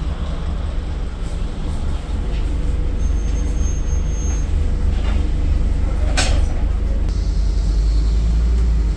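Interior sound of a Scania N230UD double-decker bus under way: a steady low engine and drivetrain rumble, growing a little louder after about two seconds. A brief sharp sound cuts in about six seconds in.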